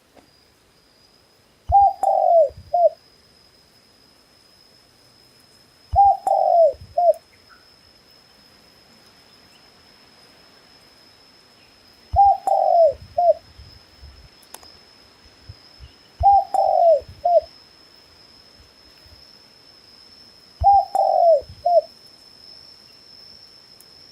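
A dove cooing: five short three-note coo phrases, each falling slightly in pitch and about a second long, repeated roughly every four seconds. A faint steady high-pitched whine runs underneath.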